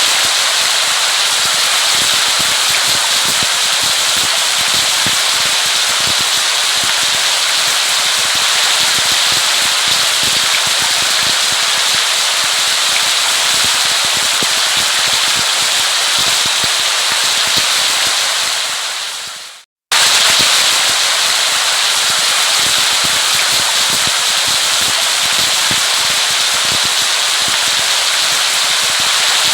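Steady heavy rain: a dense hiss full of fine crackling drop impacts. About two-thirds of the way through it fades out to a moment of silence, then starts again at full strength.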